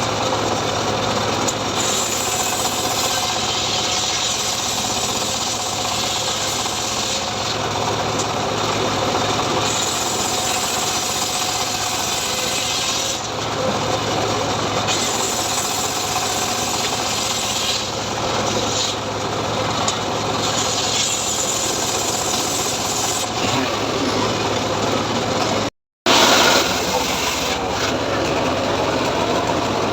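Homemade engine-driven srekel chainsaw running steadily while cutting sengon wood. The rasping cutting noise strengthens and eases every few seconds over a constant engine hum. The sound drops out completely for a split second about 26 seconds in.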